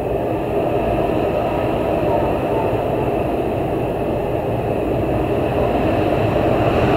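Heavy storm wind blowing in strong, sustained gusts, a dense low rush that grows a little louder near the end.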